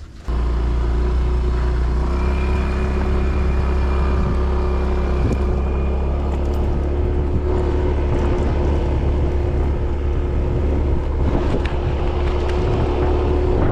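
A motor engine running steadily with a deep, even hum, coming in abruptly just after the start.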